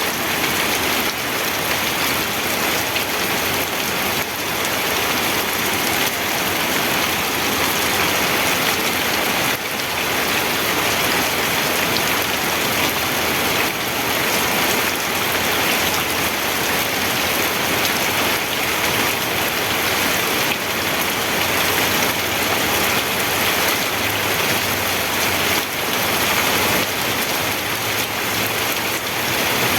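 Steady, heavy rain falling, a dense even hiss with scattered drops striking a surface.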